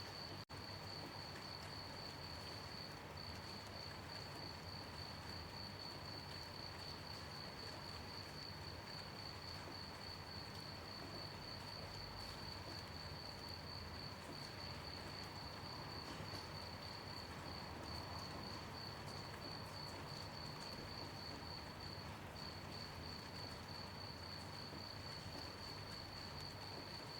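Crickets chirping in a continuous high, pulsing trill over a soft, even hiss of gentle rain. The trill breaks off briefly a couple of times, and the whole sound drops out for an instant just after the start.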